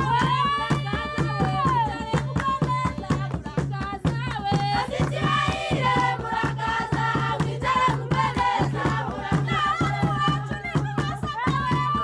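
Several voices singing together in a folk style over a steady beat of shakers and percussion.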